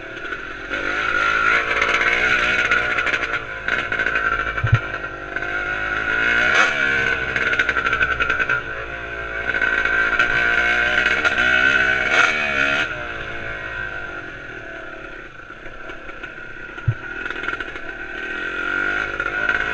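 Yamaha YZ250 two-stroke single-cylinder engine running with a broken exhaust, its revs rising and falling several times, with a few sharp clicks along the way.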